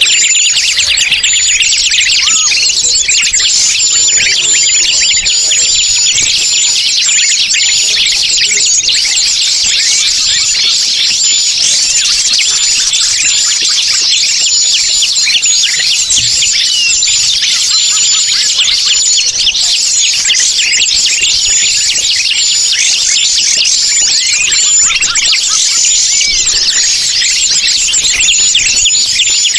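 Bird-lure recording of many small forest birds chirping and trilling at once, a dense, loud, unbroken chorus of rapid high-pitched calls.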